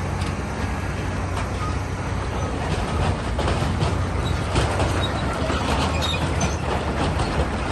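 Heavy diesel earthmoving machine running steadily under load. From about three seconds in comes a dense clatter and scrape of rock.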